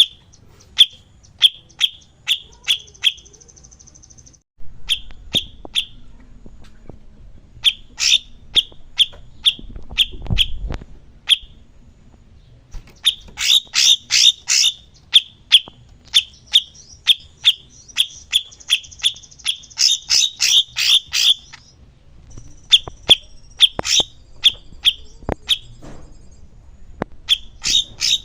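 A songbird singing in runs of sharp, high chirps, about three to four notes a second, with short pauses between runs and a buzzy, rattling trill now and then.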